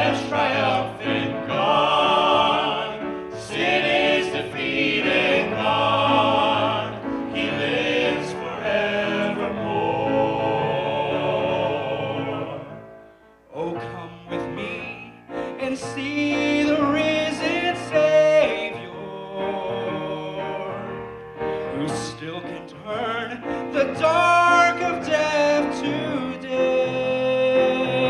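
Vocal group singing a gospel song with instrumental accompaniment. The music dips to near quiet about 13 seconds in, then starts up again.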